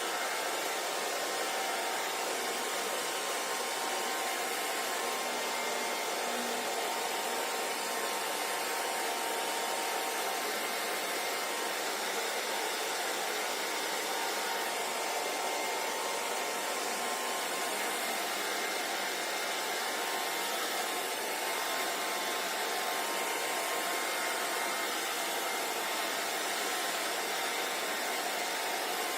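Hair dryer running steadily, an even rushing of air with a faint motor hum under it.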